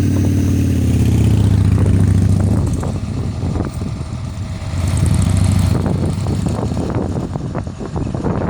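Flatbed tow truck's engine running steadily, louder for the first couple of seconds, easing off, then swelling again about five seconds in.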